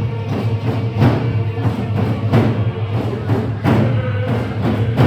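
Coast Salish hand drums beaten in a steady rhythm, a heavy beat about every second and a quarter with lighter beats between.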